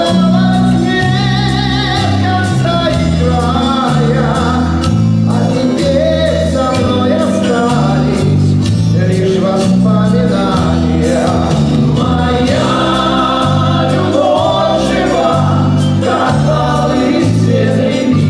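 A Soviet-era vocal-instrumental ensemble playing a love song live, with a bass line moving under lead and group vocals.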